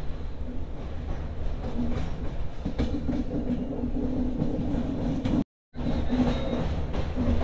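Passenger train running on the rails, heard from on board: a steady low rumble of the coaches, with a steady humming tone from about three seconds in. The sound drops out completely for a moment about five and a half seconds in.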